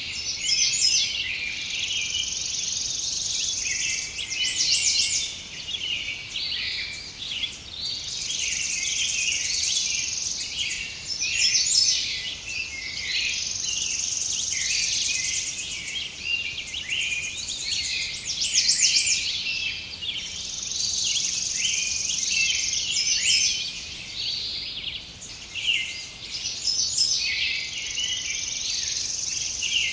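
Many small birds chirping and twittering over a high, steady insect buzz that swells and fades every few seconds.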